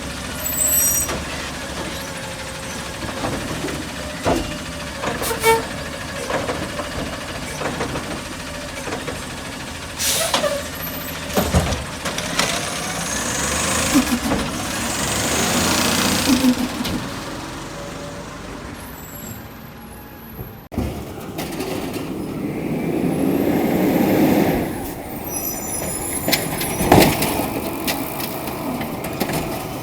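Autocar garbage truck at work: the diesel engine revs up and down twice, with sharp knocks and bangs and air-brake hisses. Partway through, the sound changes abruptly, as at a cut to another truck.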